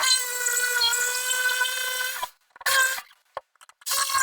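Power tool, an oscillating multi-tool, running with a steady high whine as it saws into plasterboard. It runs for about two seconds, stops, gives a short burst, and starts again near the end.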